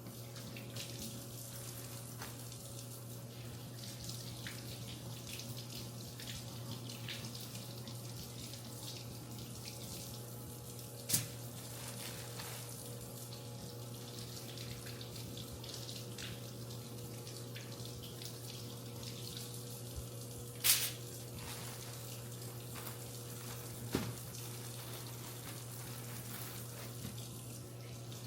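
Tap water running steadily into a sink, with three sharp clinks of dishes, and a steady low hum underneath.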